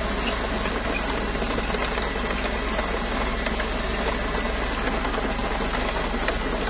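Small crawler bulldozer's diesel engine running steadily, with a low hum and a dense mechanical clatter, and a few faint clicks and knocks scattered through.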